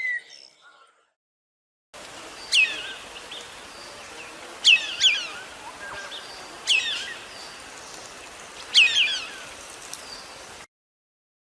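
A bird of prey calling: four sharp, falling calls about two seconds apart over a steady background hiss, starting about two seconds in and cutting off abruptly near the end.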